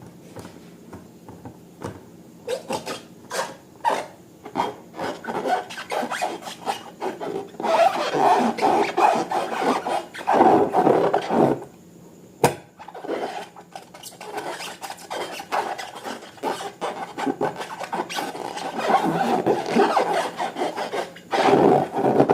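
Irregular scraping and rubbing with many short clicks, from slime being worked and mixed by hand; it grows louder about a third of the way in and again near the end.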